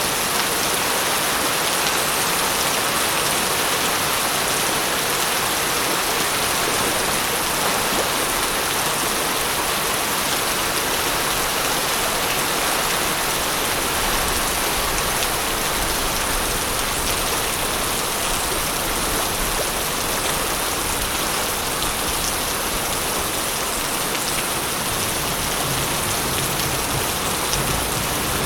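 Steady rainfall pattering on surfaces, an even hiss, with a faint low rumble underneath in the second half.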